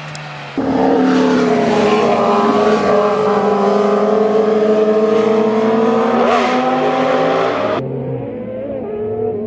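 Motorcycle engine running hard at high revs, cutting in abruptly about half a second in, its pitch easing slowly downward; near the end the sound changes abruptly and runs a little quieter.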